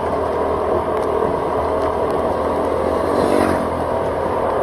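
Motorcycle engine running on the move with road and wind noise, its pitch rising briefly about three seconds in as it speeds up.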